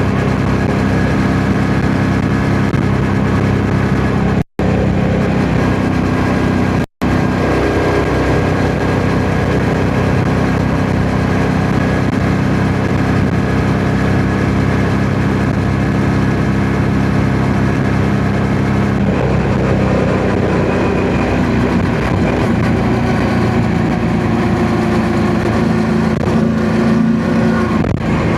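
Yamaha MT-07's parallel-twin engine running steadily on the move, its note shifting slightly about two-thirds of the way through, with wind noise on the microphone. The sound drops out for an instant twice in the first seven seconds.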